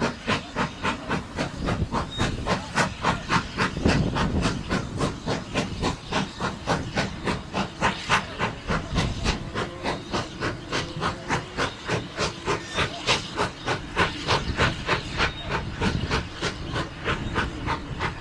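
Steam locomotive working steadily, its chimney exhaust beating rapidly and evenly at about four to five chuffs a second, over a low rumble.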